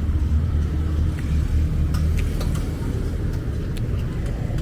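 Steady low rumble of a running motor vehicle engine, with a few faint clicks over it.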